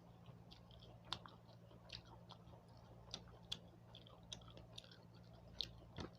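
A person chewing food at close range, faint, with irregular soft mouth clicks and smacks, over a faint steady low hum.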